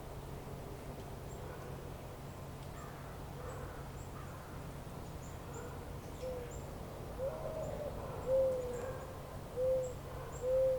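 A bird calling in a series of short, low, pitched notes, each rising and falling, starting a little over halfway through and growing louder. Faint, high, thin chirps of small birds repeat throughout over a steady low rumble of outdoor ambience.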